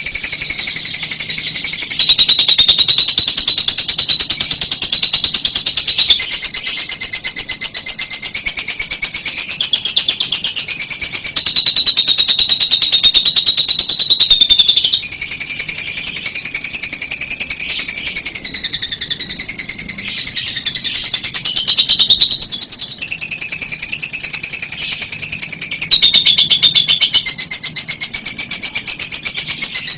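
Fischer's lovebird singing: a loud, high-pitched, unbroken stream of very fast chattering pulses whose pitch pattern changes every second or two.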